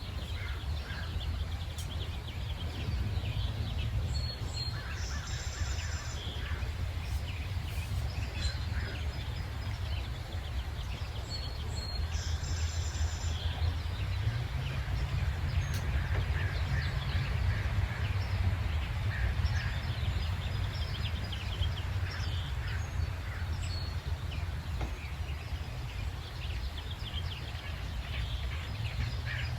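Many songbirds chirping and trilling together in a morning chorus, with a high, buzzy call standing out twice, over a steady low rumble.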